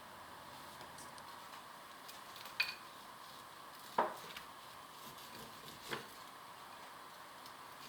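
Three light clinks of tableware, spread a second or two apart, the first with a short bright ring, over faint steady room tone.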